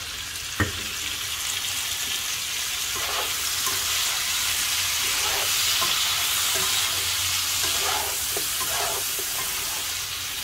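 Potato pieces, amaranth stems and fresh tomato wedges sizzling in hot oil in a non-stick frying pan while a slotted spatula stirs them. The sizzle grows louder toward the middle. There is one sharp tap a little over half a second in.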